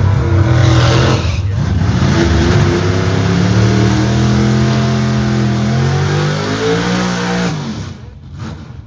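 Drag race car engine at full throttle launching down the strip, its pitch climbing, dropping once at a gear shift about a second and a half in, then climbing again before it falls away and fades near the end.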